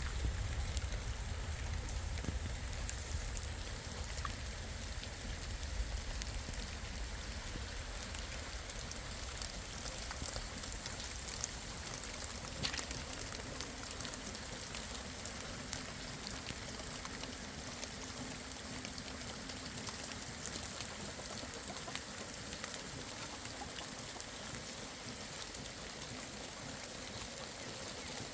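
Steady rain falling, an even hiss with scattered drop ticks; a low rumble under it fades away in the first few seconds.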